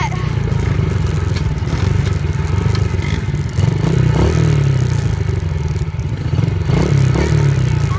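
Motorcycle engine running steadily, its pitch shifting a little.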